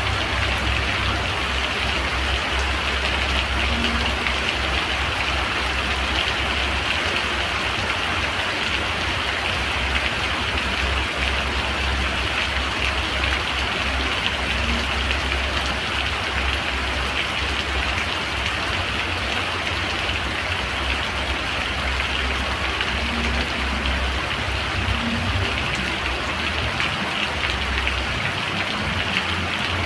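Steady rain falling, an even hiss of rain on surfaces with a low rumble underneath.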